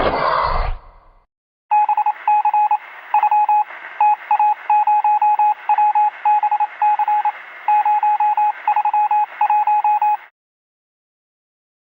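Telephone touch-tone dialing effect: short beeps in quick clusters of about three to six over a faint line hiss, stopping about ten seconds in. The first second holds the tail of a growl from the preceding effect.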